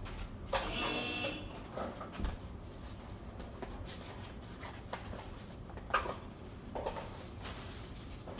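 Scattered knocks and clinks of hand work on parts or tools, with a brief ringing squeak about a second in.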